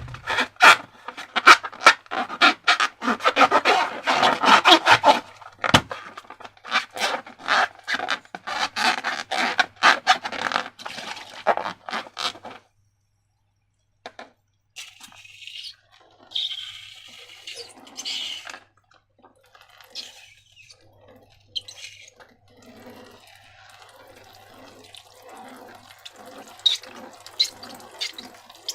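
Sticky slime being squished and worked by hand: a dense run of wet clicks, crackles and small pops that stops about 12 seconds in, followed by quieter, sparser squelching.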